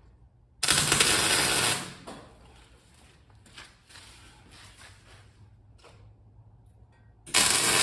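Two short bursts of electric arc welding crackle, each about a second long, one about half a second in and one near the end, tacking steel parts of the sculpture together.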